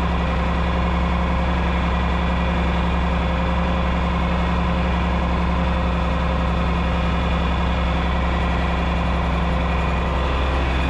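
1972 John Deere 6030's six-cylinder diesel engine running steadily at an even pitch.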